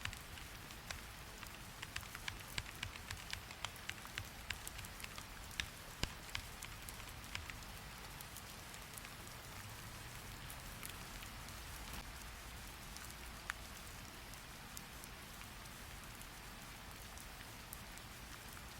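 Steady rain hiss with bursts of sharp clicks from computer keyboard typing over it, the clicks thickest in the first several seconds and sparse after.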